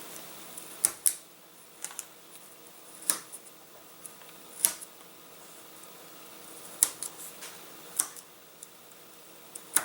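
Laser-cut 1/8 inch balsa sheet: small sharp snaps and clicks, about eight at uneven intervals, as the holding tabs break while a trailing edge part is pushed out of the sheet. A faint steady hum lies under them.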